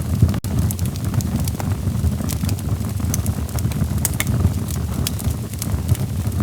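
Wood fire burning in a fireplace: a steady low rumble of flames with scattered sharp crackles and pops from the burning logs. There is a brief dropout about half a second in.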